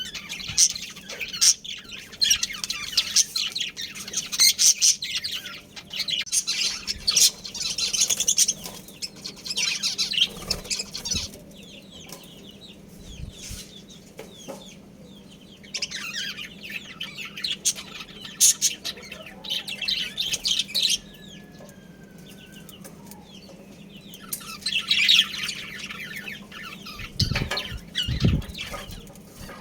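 Budgerigars chirping and chattering in bursts of rapid high-pitched warbling, broken by a few quieter pauses, with a few low thumps near the end.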